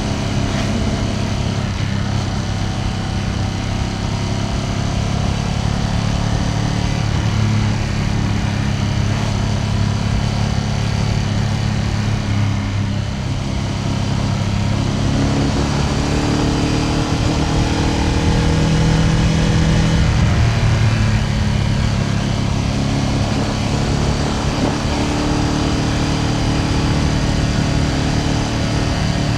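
Ducati Panigale V2S V-twin engine running steadily on the move. Its pitch shifts a little from about halfway through as the revs change.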